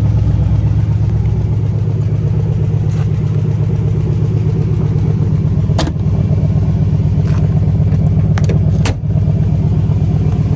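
A car engine idling steadily: a low, even hum, with a few sharp clicks in the second half.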